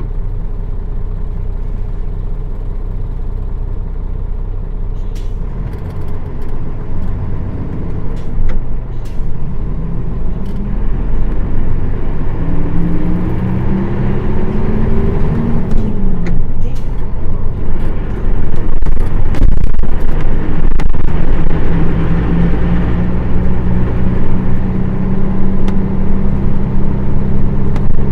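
Nissan Diesel PF6 diesel engine of a city bus running at low revs, then pulling harder with its pitch rising. Near the middle the pitch drops at a gear change, and the engine then runs steadily and louder under load.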